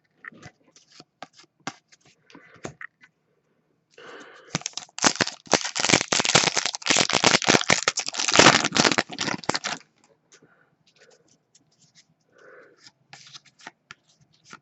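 Foil trading-card pack being torn open and crinkled: a loud, dense crackling lasting about five seconds in the middle, with light scattered clicks and rustles of card handling before and after.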